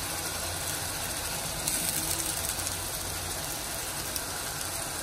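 Wet green masala paste sizzling and crackling in hot oil in a steel kadhai as it fries, with its grinding water cooking off; the crackle is briefly louder about two seconds in. A steady low hum runs underneath.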